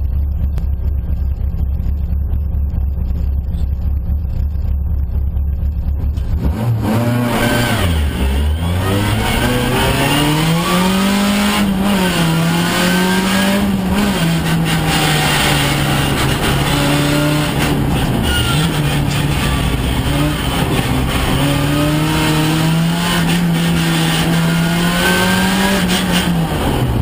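Opel Astra F's four-cylinder engine heard from inside the cabin, idling low and steady for about six seconds. It is then launched hard and revved through the gears on a slalom run, its pitch climbing, dropping at shifts and lifts, and climbing again.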